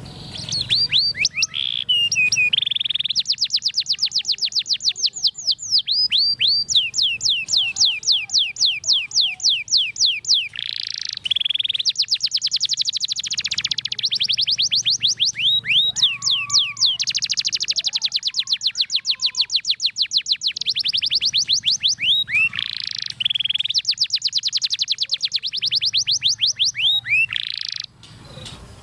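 Domestic canary singing one long, unbroken song of fast trills: runs of rapidly repeated sweeping notes that switch to new phrases every few seconds. The song stops abruptly near the end.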